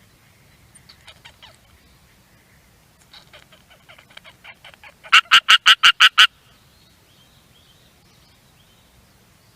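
Duck quacking: a few soft quacks about a second in, then a run of quacks that grows louder and ends in about seven loud, rapid quacks before it stops abruptly.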